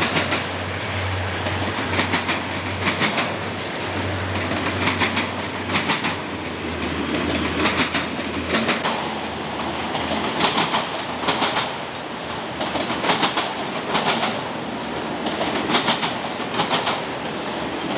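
A freight train's auto-rack cars rolling by with a steady rumble of steel wheels on rail. The wheels clickety-clack in quick clusters, two clusters close together about every two and a half seconds as the trucks at each car coupling pass.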